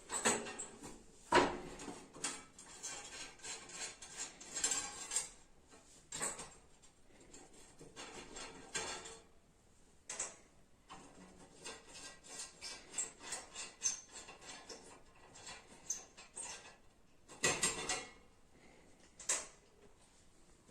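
Irregular metallic clinks, knocks and scrapes of bolts and metal stove parts being handled while a wood-burning stove is taken apart by hand. A few louder knocks come near the start and again toward the end.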